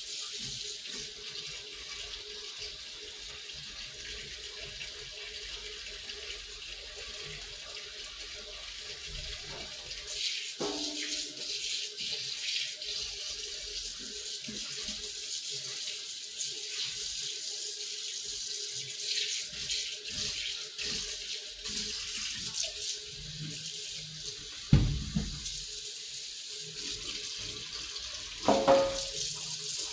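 Water running from a kitchen tap into a sink, a steady splashing hiss that gets louder about ten seconds in. There are occasional knocks, with two louder thumps near the end.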